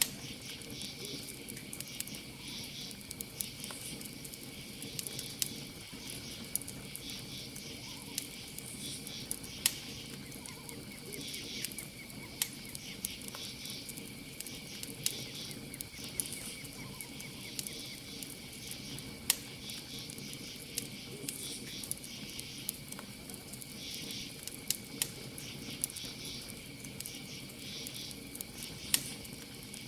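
Campfire crackling with a dozen or so sharp pops, over a steady high cricket trill and pulsing insect chirps that repeat every second or two.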